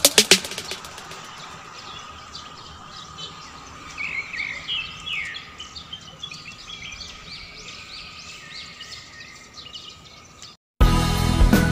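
Birds chirping in short, quickly rising and falling calls over a faint steady outdoor hum, busiest in the middle; after a brief gap of silence, background music starts near the end.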